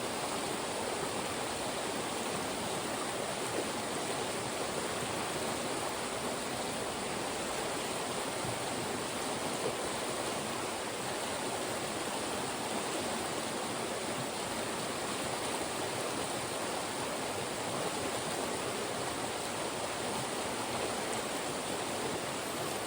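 Fast-moving mountain stream rushing through narrow channels between rocks, a steady, unbroken rush of water.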